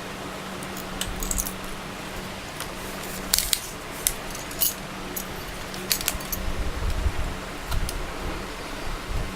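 Irregular small metallic clinks and clicks, like keys or small metal objects being handled, over a steady low hum.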